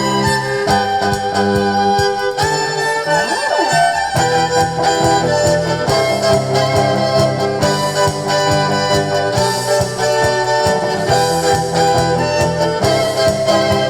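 Live band playing instrumental music: sustained chords over a steady beat, with a sliding note about three seconds in.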